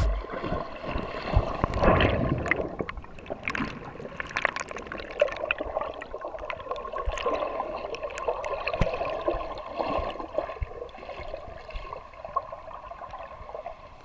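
Water washing and gurgling, like surf at the water's edge, with scattered faint knocks.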